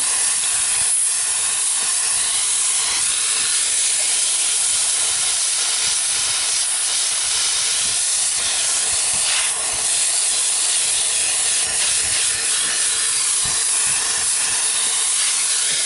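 Compressed air blowing steadily from an air nozzle, blasting dust out of a dirty truck engine air filter. There is a brief dip about nine and a half seconds in.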